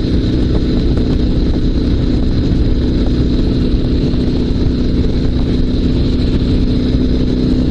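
Dnepr 16 sidecar motorcycle's flat-twin boxer engine running steadily at an even pitch. The engine is being tested after stalling from fuel starvation, and it sounds to be running normally.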